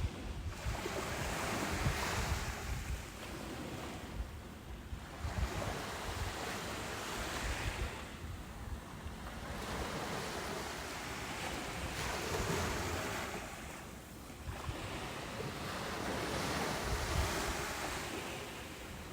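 Ocean surf: waves breaking and washing up a beach, the rush swelling and ebbing about every five seconds, four times over.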